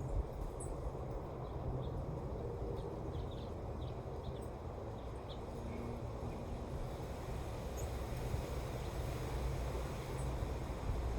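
Wind blowing steadily, with a low rumble of wind on the microphone, and a few short faint high chirps scattered through it.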